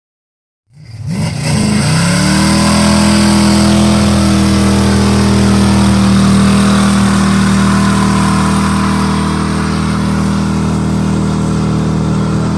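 V8 muscle car exhaust through 3-inch turbo mufflers, coming in about a second in. It revs up quickly and then holds at a steady high engine speed, loud, with deep bass and a strong hiss over the top.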